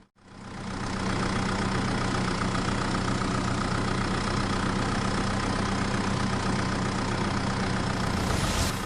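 A steady engine running at idle with a constant low hum. It fades in over about the first second and holds level.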